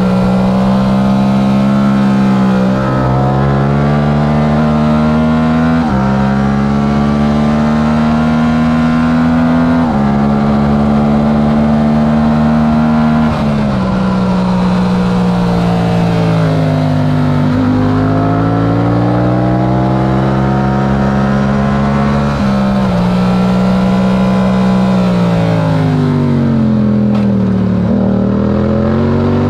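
Yamaha R7's stock 689 cc parallel-twin engine under racing load. It revs up and snaps lower at upshifts about every three to four seconds early on, then winds down twice as the bike slows for corners and pulls up again.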